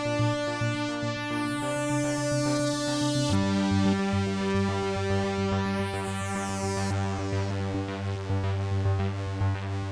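2-XM analog synthesizer modules playing sustained chords with a single-note arpeggio merged in. The chord changes about a third of the way through, and high sweeps fall in pitch twice.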